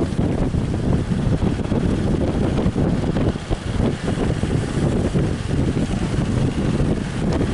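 Strong wind buffeting the microphone in uneven gusts, a heavy low rumble.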